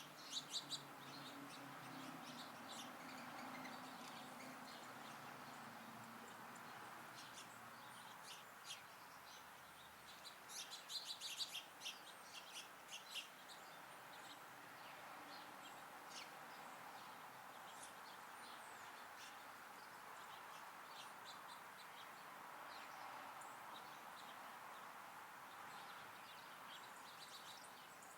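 Small songbirds chirping faintly: scattered short high chirps, with a quick run of many chirps about ten to thirteen seconds in, over a faint steady background hum.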